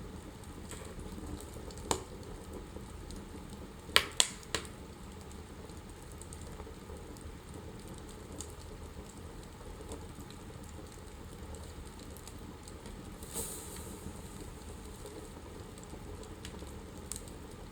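Wood fire burning in a fireplace, crackling over a steady low rush of flames, with a sharp pop about two seconds in and a quick run of three loud pops about four seconds in.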